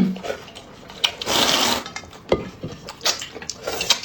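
Close-up eating sounds: a long noisy slurp, typical of sucking in noodles, about a second in, then wet chewing smacks and clicks of chopsticks against the bowl.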